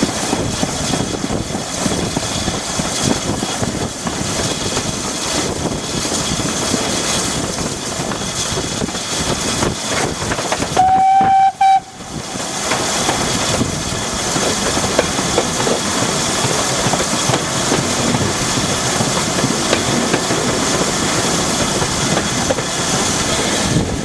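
Train running with a steady noise. Near the middle a single whistle sounds on one pitch for about a second.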